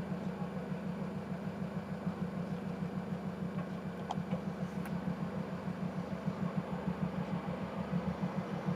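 A parked taxi's engine idling, left running while stationary: a steady low throb with an even, rapid pulse.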